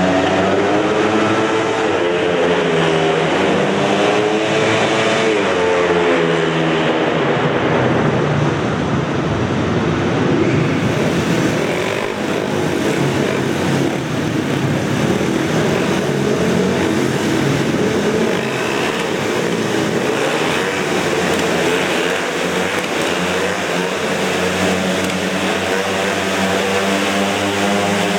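Several speedway motorcycles racing, their 500 cc single-cylinder methanol engines rising and falling in pitch over and over as the riders go into and out of the bends.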